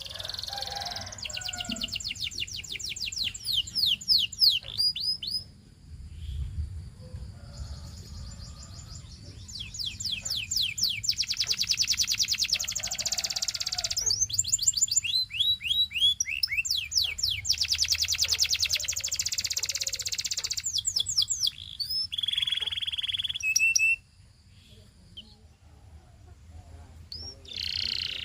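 Domestic canary singing long phrases of rapid, rolling trills: fast runs of repeated high notes, each run at a different speed, broken by short pauses. The song goes quiet for a few seconds near the end.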